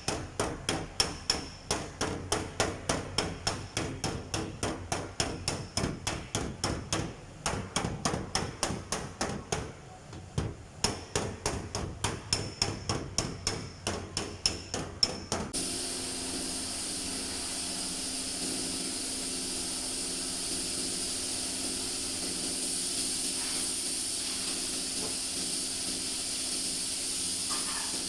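A body-repair hammer beating dents out of a steel door panel, quick even blows about three a second. About fifteen seconds in this cuts abruptly to a steady hiss.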